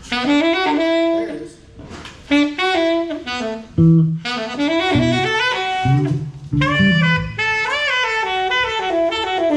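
Saxophone playing short jazz phrases, note runs broken by brief pauses, with a few low bass notes joining in the middle.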